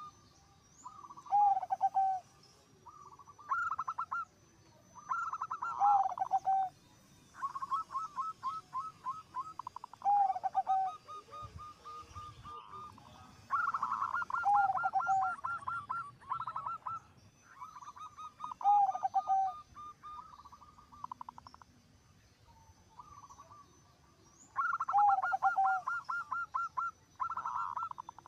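Zebra dove cooing: repeated phrases of quick pulsing coos, many ending in a lower drawn-out note, one phrase every two or three seconds.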